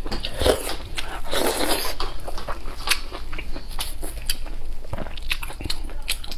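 Close-miked eating: a person biting and chewing food, with irregular wet mouth clicks and smacks.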